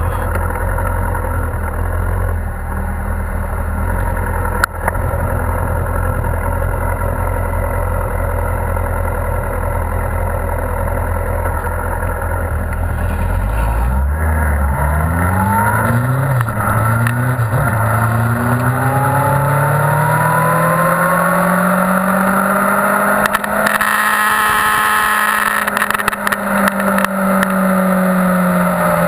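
2001 Yamaha R1's 998 cc inline-four engine running low and steady, then, about halfway through, accelerating hard through the gears with the pitch climbing after each shift. Heavy wind rush on the bike-mounted camera builds as the speed rises.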